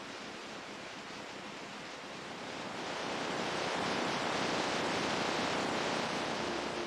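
A steady rush of ocean surf with no music over it, swelling louder about two and a half seconds in as a wave comes in.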